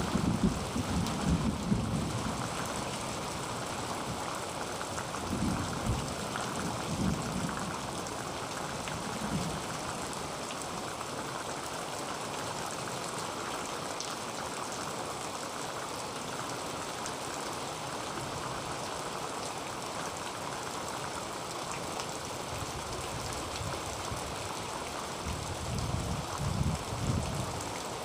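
Heavy rain drumming steadily on a tin roof. Brief low rumbles swell up three times: at the start, about a fifth of the way in, and near the end.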